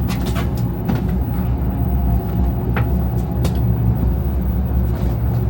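Steady low rumble of a Shinkansen bullet train running, heard from inside the passenger car, with a few light clicks scattered through it.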